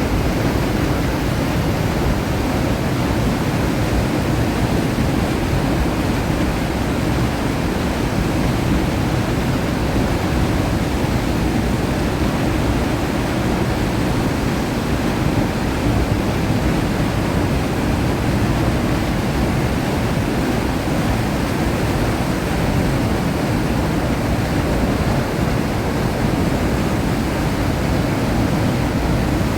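Loud, steady rushing of a waterfall and fast river water, an even noise heaviest in the low range that doesn't change throughout.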